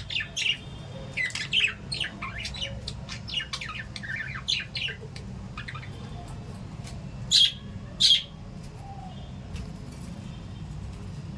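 Small pet parrots chirping in quick, high bursts, then two loud squawks about seven and eight seconds in. A steady low hum runs underneath.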